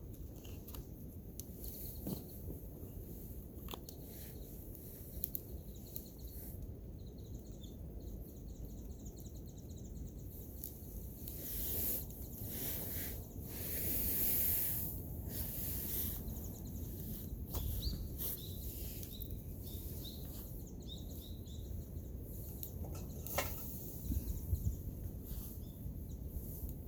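Outdoor ambience: a steady low rumble with scattered small-bird chirps and a few sharp clicks, and a louder rushing hiss about halfway through.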